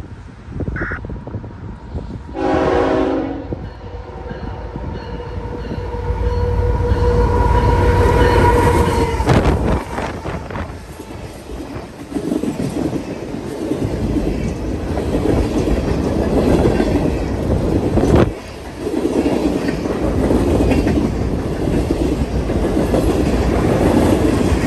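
A train sounds its air horn: a short blast about two and a half seconds in, then a longer one that grows louder until it stops about nine seconds in. The train then passes close by with a loud, heavy rumble and the clatter of its wheels on the rail joints.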